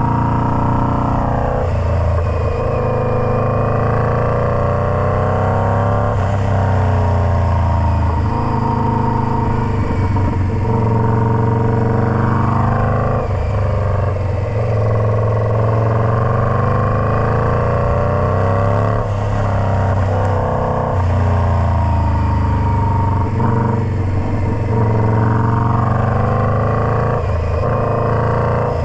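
Indian Scout Bobber's V-twin engine running through a Freedom Performance Combat 2-into-1 exhaust. The revs climb and drop back sharply several times.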